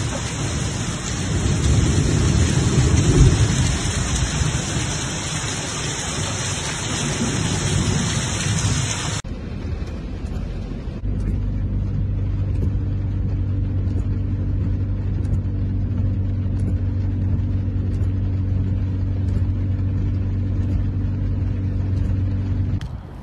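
Heavy rain pouring down with a strong low rumble. About nine seconds in it cuts off abruptly, and a steady low droning hum with a quieter wash of noise follows.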